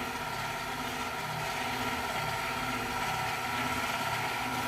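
KitchenAid stand mixer motor running steadily, turning the dasher of its ice cream maker attachment as the ice cream base churns: a constant hum of several steady tones.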